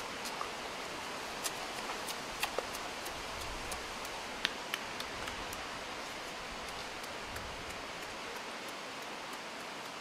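A boy chewing and smacking his lips as he eats, a few sharp clicks over a steady hiss of background noise.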